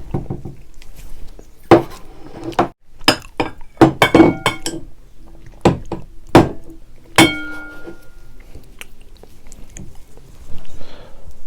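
Eating utensils knocking and clinking against dishes, a dozen or so sharp strikes clustered in the middle, several with a short bright ring, among quieter handling noise.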